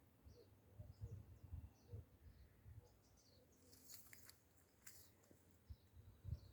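Faint, scattered short chirps of small birds, over soft low thumps, with a couple of sharp clicks about four and five seconds in.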